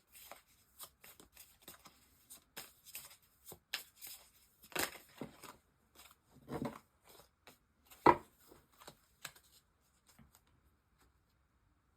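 A deck of reading cards being shuffled and handled: irregular light taps and rustles, with one sharper snap about eight seconds in.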